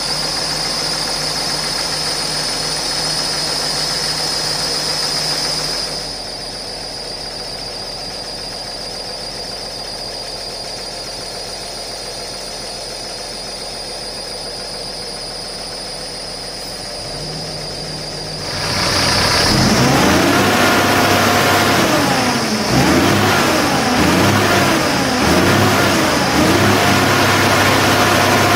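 Cummins ISX diesel engine of a semi-truck idling steadily, with a high steady whine over it that stops about six seconds in. About two-thirds of the way through it is revved up and down repeatedly, rising and falling in pitch about every second and a half.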